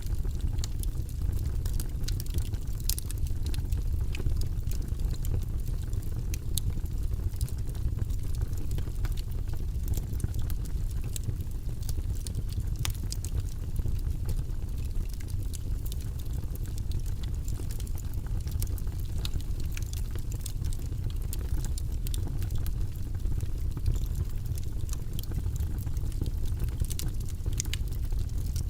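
Log fire burning in a fireplace: a steady low rumble of flames with frequent sharp crackles and pops from the wood.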